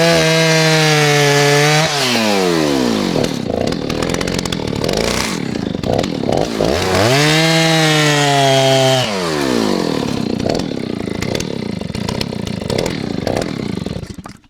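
Stihl 039 two-stroke chainsaw revved twice to full speed with no load, each rev held about two seconds and falling back to an uneven idle, then shut off near the end. The owner complains that the idle runs high and wants to adjust the idle screw.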